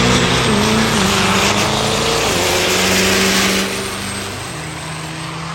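Competition diesel truck engine running at full throttle, heavy and loud, with a high whine over it. It eases off about three and a half seconds in and keeps running lower.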